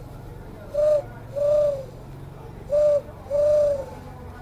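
Dove cooing: a short coo followed by a longer one, the pair given twice, over a faint low steady hum.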